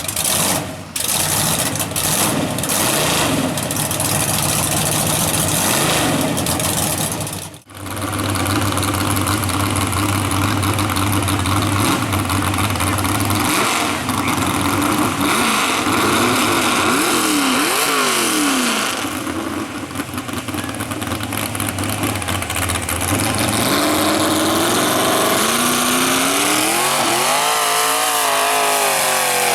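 Tractor-tire mud truck engine running hard at high revs, the pitch rising and falling repeatedly as the throttle is worked. The sound breaks off briefly about a quarter of the way in.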